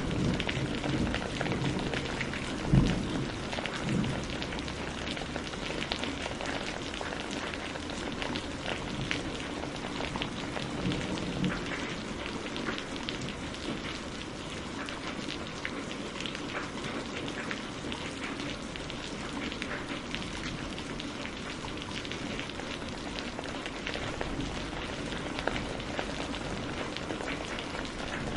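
Steady rain falling, with many small drop ticks. About three seconds in, a low thunder rumble with a sharp loud crack, and a smaller one a second later.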